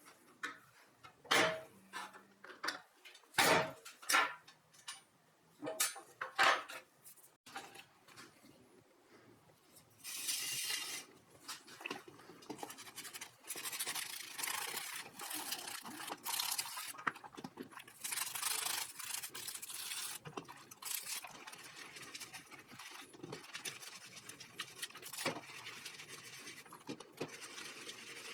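A few sharp knocks and clicks, then a long stretch of steady rubbing, starting about ten seconds in.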